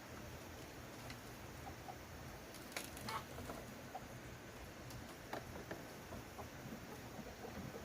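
Chickens clucking faintly, with scattered light clicks and taps.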